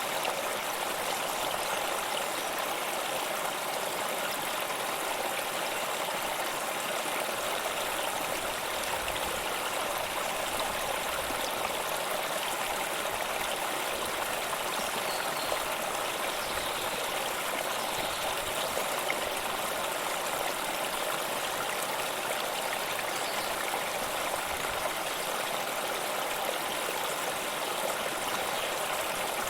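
Steady running water of a stream, flowing and trickling evenly without a break.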